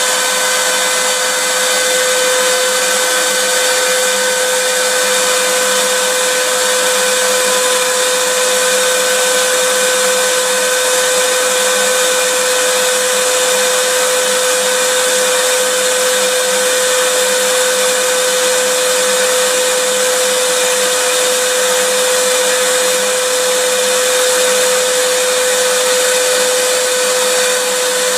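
Vacuum cleaner motor running steadily, a constant rushing hiss with a steady whine, played as continuous white noise.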